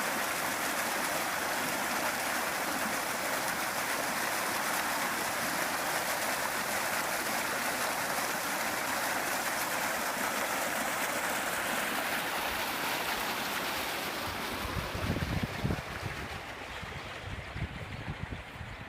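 Flash-flood water rushing steadily. The rush grows quieter after about thirteen seconds, and low, uneven wind buffeting on the microphone comes in near the end.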